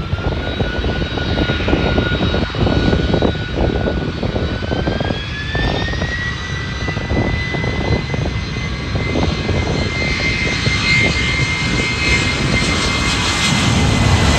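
Boeing 767-300's twin turbofan engines spooling up for takeoff: a steady whine rises in pitch about five seconds in and then holds, over a heavy deep rumble.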